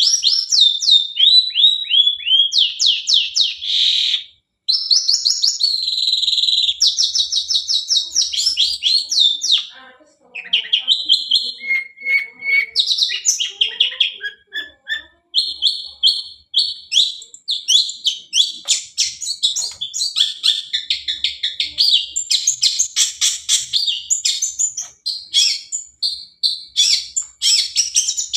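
Long-tailed shrike (cendet) singing a fast, varied song of rapid, downward-sweeping whistled notes, phrase after phrase, with short breaks about four and ten seconds in.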